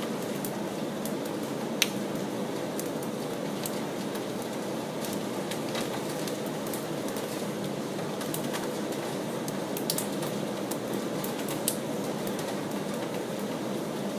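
Steady rain, with scattered drips ticking and tapping on hard surfaces and a few louder taps.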